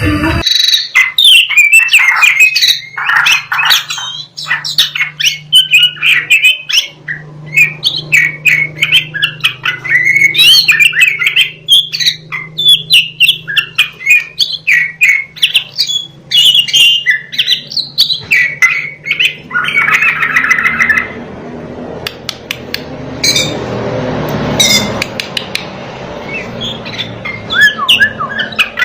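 Oriental magpie-robin (kacer, black-chested East Java form) singing a loud, varied song of rapid whistles, chatters and harsh squawking notes. About two-thirds of the way through, the singing thins out into a hissy stretch with fewer notes, then picks up again near the end.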